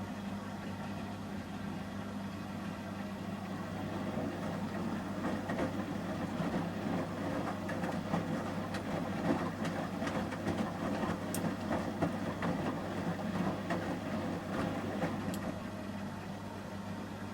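Samsung Series 5+ front-loading washing machine during the heating stage of a 30 °C shirts wash: a steady low hum, with the drum turning and the wet load churning and tumbling from about four seconds in until near the end.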